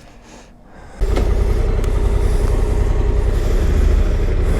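Motor vehicle engine running steadily at a low, even pitch with a constant hum, cutting in suddenly about a second in.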